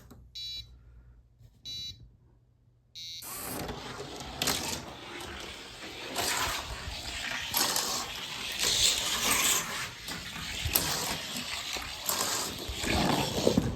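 Three short electronic beeps in the first three seconds, then a die-cast Johnny Lightning Chevy Capri rolling down a long race track: a steady rushing rumble with a few sharp clicks, lasting about ten seconds.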